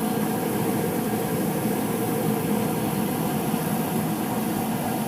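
Steady mechanical hum with an even hiss, unbroken and without distinct clicks or knocks.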